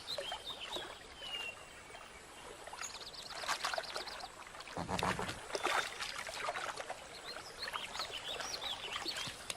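Water splashing and dripping as a river otter handles a freshly caught cutthroat trout, the loudest splash about halfway through. Small birds chirp in the background, with a short high trill near the middle.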